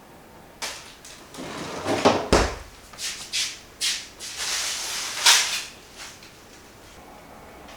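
Kitchen handling noises: a string of knocks, clatters and rustles over about five seconds, with a low thump a little over two seconds in and the loudest, scraping rustle around five seconds in.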